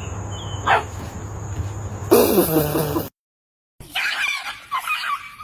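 Animal calls in two short clips with a brief silence between them. A falling squawk comes about a second in, a louder wavering cry near two seconds, and a run of high yelps after the gap.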